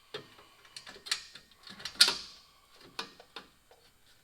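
Irregular clicks, knocks and clatter of hard parts and hardware being handled, with the loudest knock about two seconds in.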